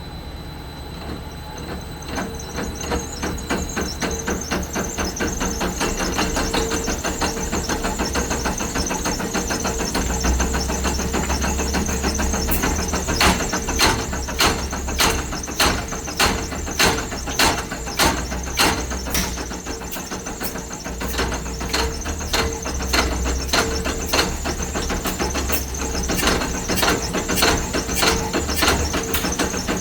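Electric motor on a Delta variable-frequency drive turning an engine over, with a steady high whine. From about twelve seconds in, a regular knock comes about twice a second as the engine's compression strokes load the motor.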